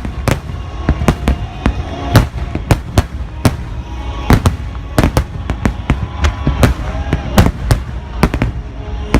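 Aerial fireworks shells bursting in a rapid, irregular barrage, about two loud bangs a second over a continuous low rumble, with music playing underneath.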